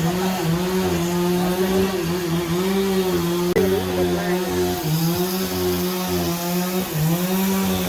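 Motor-driven saw cutting through a log: a steady motor note that dips in pitch and recovers several times as the blade bites into the wood. There is one sharp knock about three and a half seconds in.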